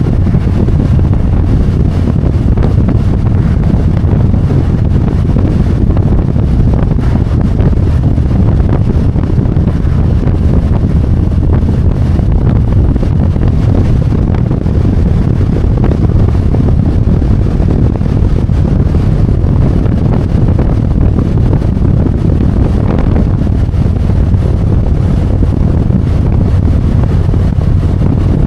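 Steady wind rush on the microphone of a Harley-Davidson Road Glide under way, over a low, steady rumble of engine and road.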